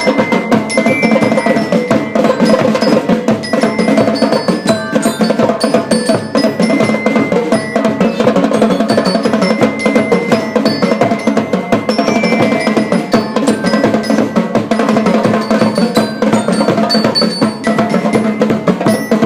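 School marching band playing: steady drum and percussion rhythm with a bright, high bell melody over it.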